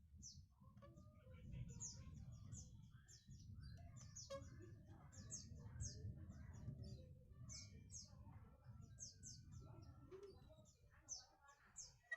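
Small birds chirping and twittering faintly, with many quick high chirps, about two a second, over a steady low rumble.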